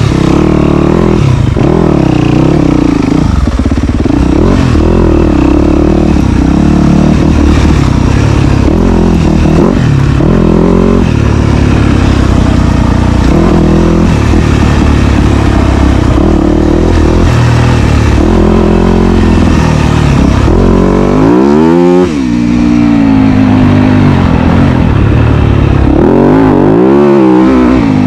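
Dirt bike engine running loud and close while riding a trail, its pitch rising and falling with the throttle and shifts, with a sharp rev up and drop about three-quarters of the way through and another near the end.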